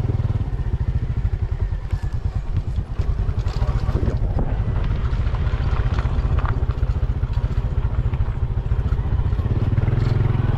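Motorcycle engine running steadily while the bike is ridden along a rough dirt path, with scattered rattles and knocks.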